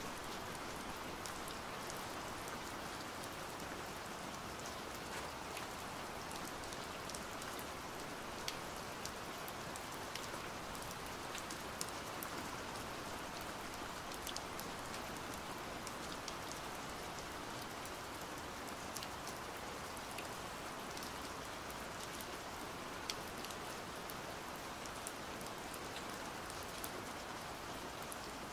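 Steady rain falling: an even hiss of rainfall with occasional sharper individual drop ticks standing out.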